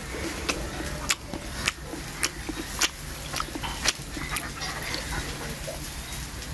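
Close-up chewing of grilled chicken: a run of sharp wet mouth clicks and smacks about every half second, over a steady low hum.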